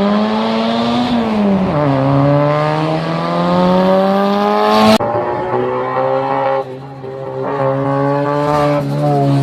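Turbocharged 1.8T four-cylinder engine of a VW Jetta Mk4 pulling hard under acceleration. Its pitch climbs, drops at a gear change about a second and a half in, then climbs again. It breaks off suddenly about five seconds in, and the engine is then heard at lower, steadier revs with two brief drops in revs.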